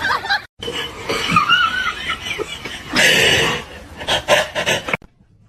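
People laughing in a home-video clip, with a louder burst about three seconds in.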